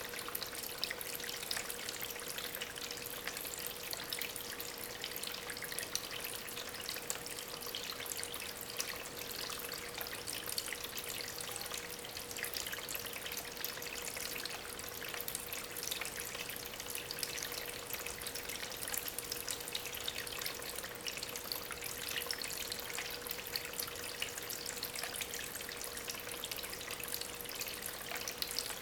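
Water from a small homemade waterfall trickling and splashing steadily over stones, its flow driven by a small aquarium pump. A faint steady hum runs underneath.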